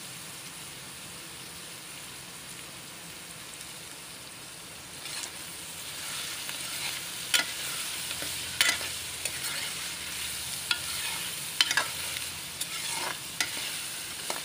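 Chopped bitter gourd frying in oil in a metal pot, with a steady sizzle. About five seconds in, a metal spoon starts stirring, with sharp clinks and scrapes against the pot.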